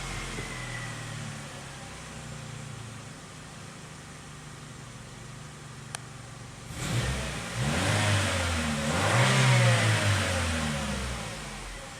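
Holden Cruze engine idling steadily, then revved about seven seconds in, its pitch climbing and falling twice before it settles back toward idle.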